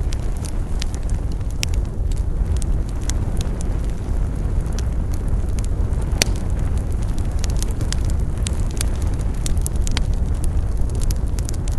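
Wood fire burning with a steady low roar and frequent sharp, irregular crackles and pops.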